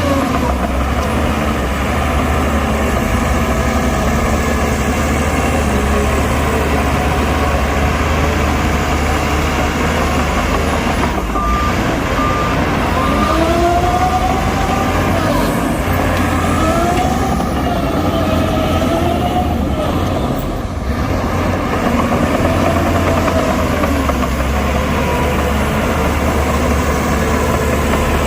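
Heavy diesel earthmoving machinery working: a steady engine rumble with recurring rising-and-falling squeals, and a few short beeps about twelve seconds in.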